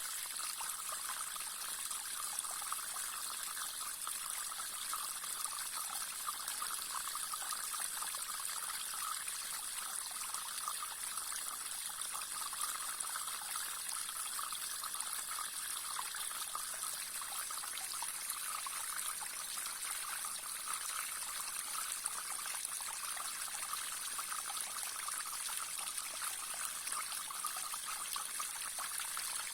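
Small brook running steadily, an even trickling and splashing of water that is mostly high and hissy with little deep rumble.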